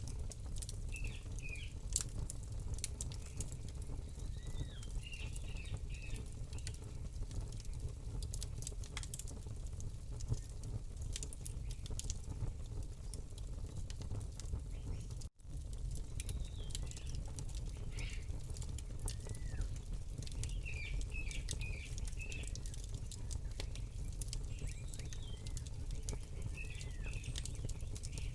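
Campfire crackling with frequent sharp pops over a low steady rumble, while small birds chirp in short repeated calls. The sound cuts out for an instant about halfway through.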